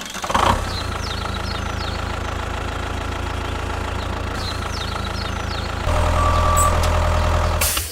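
Tractor engine idling steadily, getting louder about six seconds in, with a few short chirps above it.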